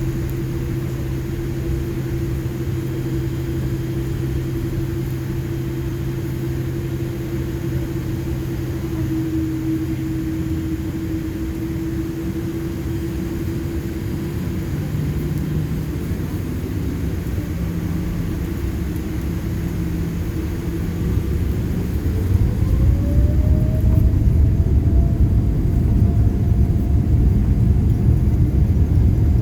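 Boeing 787-8 engines heard inside the cabin: a steady hum with a low rumble, then about two-thirds of the way through a rising engine tone and a louder rumble as the engines spool up.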